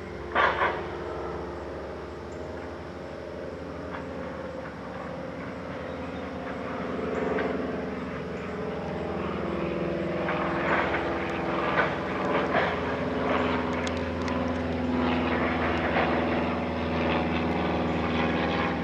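Low-flying small propeller airplane droning overhead, its engine growing steadily louder. Sharp metallic bangs break in about half a second in and several more around the middle.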